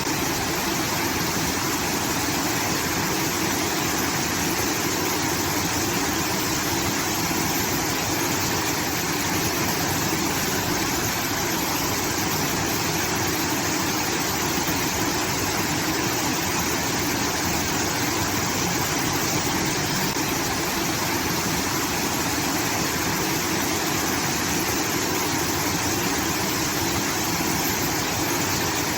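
Water rushing steadily from a rice-field irrigation outlet, an even waterfall-like roar that does not change.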